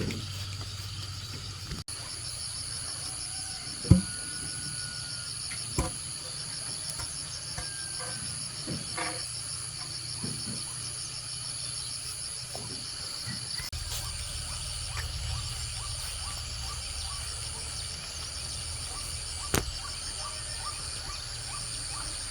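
Insects chirring in a steady high-pitched chorus, one of them a rapid pulsing trill. A few sharp knocks cut through it: the loudest about four seconds in, another near six seconds, and one shortly before the end.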